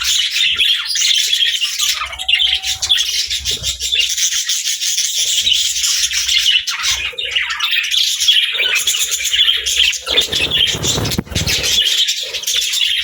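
Budgerigars chattering and chirping continuously in a dense, high-pitched warble, with a short whistled note about two seconds in. A rustling burst of lower noise comes about ten seconds in and lasts roughly two seconds.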